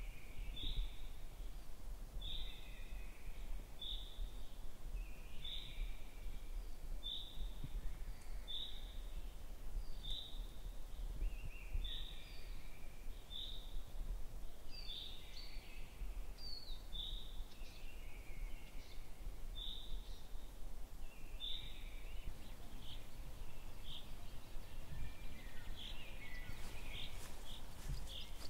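Wild birds singing, a short clear note repeated about once a second with other softer notes trailing below it, over a steady low rumble of wind and background noise. Near the end the notes come quicker and thinner.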